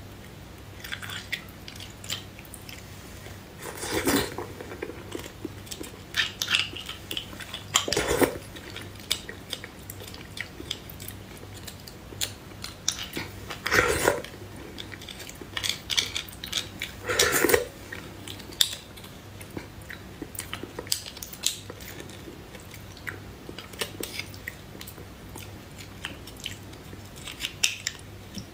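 Close-miked chewing and biting of spicy beef bone marrow: wet mouth sounds and many small sharp clicks, with four louder, longer bursts.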